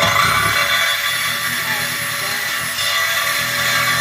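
Power tool spinning up with a brief rising whine, then running steadily with a high-pitched whine over a rough, gritty noise.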